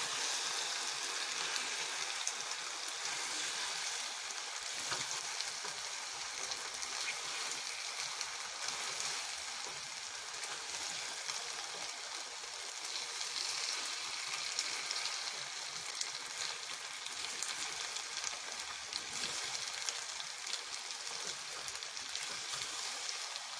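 Macaroni pasta and spiced tomato masala sizzling steadily in oil in a frying pan while being stirred with a silicone spatula.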